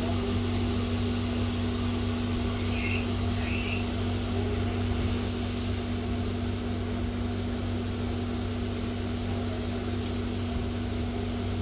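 A steady machine hum with one constant low tone and a faint even hiss, unchanging throughout; two faint short chirps sound about three seconds in.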